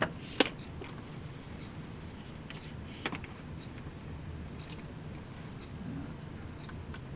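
A few sharp clicks or knocks: two close together at the very start, about half a second apart, and a smaller one about three seconds in, over a steady low hum.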